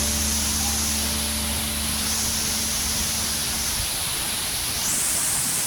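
Steady rush of falling water from a waterfall, an even hiss with no breaks. A low droning hum under it fades out about two-thirds of the way through.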